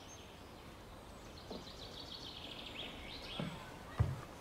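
A songbird singing a fast trill of repeated high notes over faint outdoor background noise. A few soft low thumps come later, the loudest near the end.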